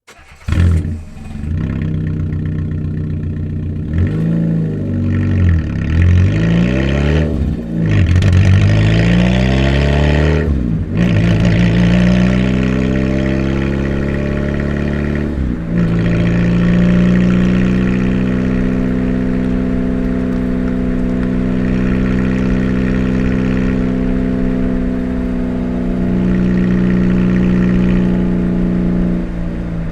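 Car engine with a damaged muffler, loud and raw through the broken exhaust: it starts about half a second in, idles, is revved up and down a few times, then pulls away with its pitch rising, dipping briefly about fifteen seconds in and holding steady after that.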